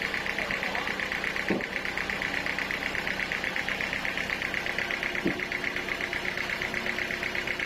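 A sawmill machine's engine running steadily with a fast, even pulsing. Two short knocks come through, about a second and a half in and again near the five-second mark.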